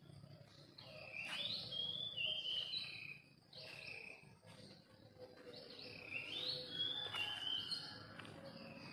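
A songbird singing repeated phrases of short, sliding whistled notes, a phrase every second or two.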